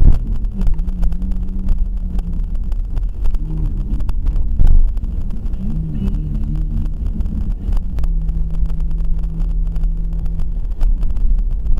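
Motor vehicle running as heard by a dash camera: a heavy low road rumble and an engine drone that wavers and then holds steady for a few seconds late on, over frequent sharp knocks and rattles. The loudest jolts come right at the start and about four and a half seconds in.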